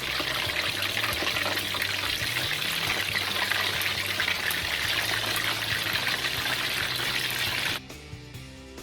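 Battered chicken pieces deep-frying in hot oil, a loud, dense, steady sizzle as the moisture in the chicken boils out. The sizzle cuts off suddenly about a second before the end.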